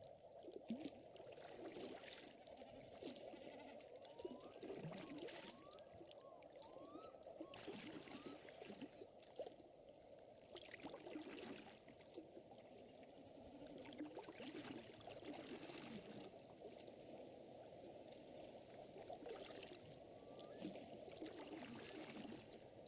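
Faint lakeside ambience: water lapping and trickling steadily, with irregular crackles of a wood fire and a few short rising plinks.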